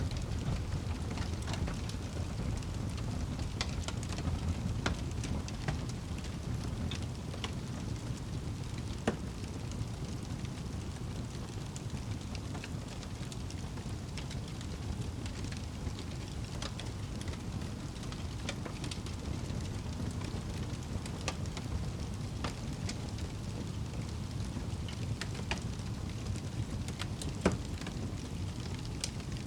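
Wood fire burning in a fireplace: a steady low rumble of the flames with scattered sharp crackles and pops, two louder pops about nine seconds in and near the end.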